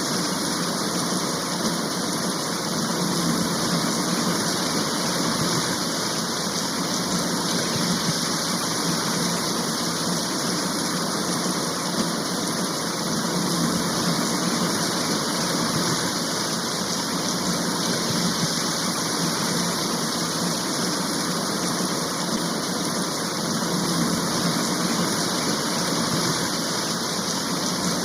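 Steady rain shower, an even, unbroken hiss of falling rain.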